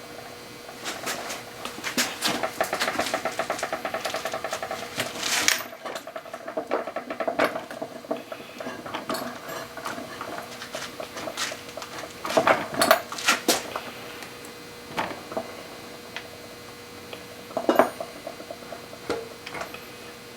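A drill working a bit into a broken steel bolt in an aluminium oil filter housing, chattering in a fast, even rhythm for about five seconds. Later comes a handful of sharp metal clinks and clanks from tools against metal, the loudest about twelve to thirteen seconds in and again near eighteen seconds.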